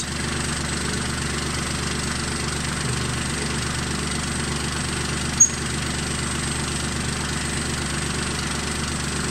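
Kubota tractor engine idling steadily, with one short sharp click about five seconds in.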